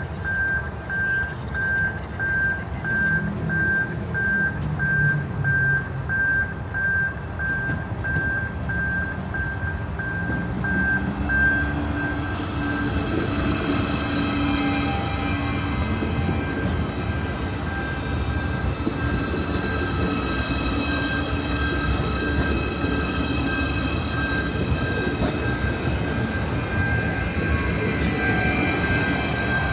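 Level-crossing warning beeper sounding in rapid, even pulses, then a train running over the crossing from about ten seconds in. The train's wheel and running noise, with a steady hum, grows louder and half covers the beeps.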